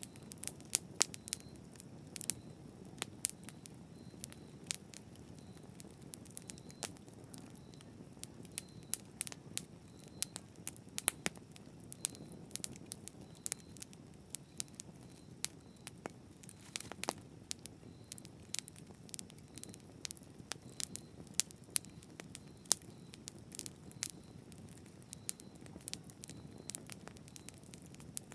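Campfire burning: a steady low rumble of flames with frequent irregular crackles and sharp pops of burning wood.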